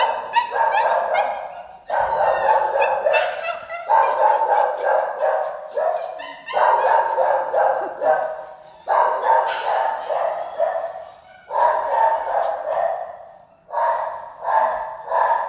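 Many dogs barking at once in shelter kennels: overlapping barks coming in loud surges about every two seconds, really loud.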